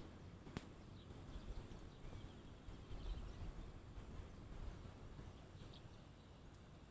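Quiet outdoor ambience: a low rumble with faint, scattered bird chirps and one sharp click a little over half a second in.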